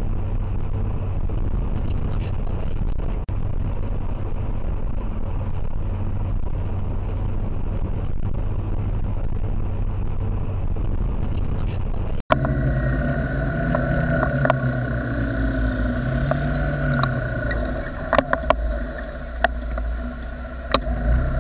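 Motor vehicle engine running steadily under a noisy rush. It cuts abruptly about twelve seconds in to another engine whose pitch rises and falls, with several sharp knocks near the end.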